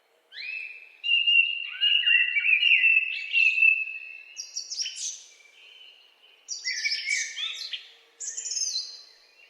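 Songbirds singing in woodland: bouts of quick, overlapping whistled and chirped notes, several phrases with short pauses between them.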